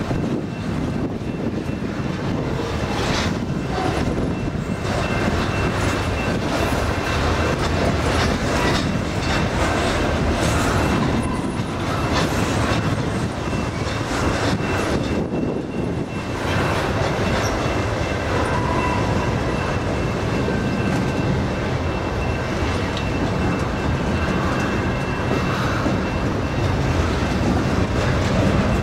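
Loaded double-stack container well cars of a freight train rolling past at close range: steady wheel-on-rail rumble and clatter, with a faint steady high ring running through it.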